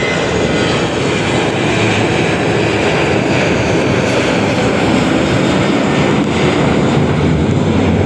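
Boeing 737 jet engines running at takeoff power: a loud, steady engine noise that grows slightly louder.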